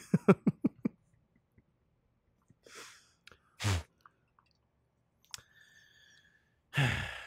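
Close-miked chewing and mouth clicks, a quick irregular run in the first second. Later come a short breath, one brief voiced sound, and a short steady high tone.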